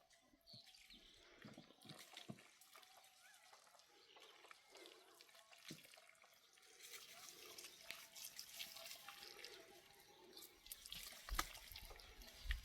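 Faint water dripping and trickling, with scattered small ticks and two sharper knocks near the end.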